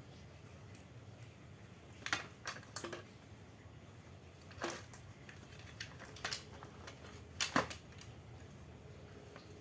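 Scattered sharp clicks and light knocks as electric fan parts are handled and fitted together, about half a dozen over several seconds, the loudest pair near the end.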